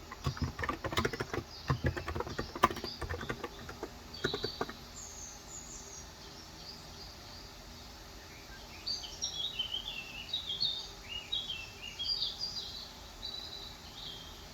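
Typing on a Cox Endeavour electrostatic-capacitive keyboard with 35 g switches: a quick run of keystrokes that stops about four and a half seconds in. Small birds chirp throughout, with a busier stretch of short high chirps in the second half.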